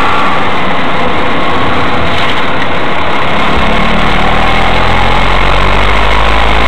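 Mazda 3 engine running, loud and noisy, with a deep low drone that sets in a little past halfway through.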